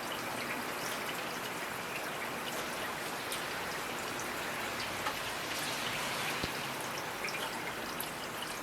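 Steady rainfall, a dense even patter with individual drops ticking sharply here and there.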